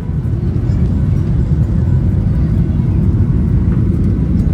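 Steady low rumble of an airliner in motion, heard from inside the cabin.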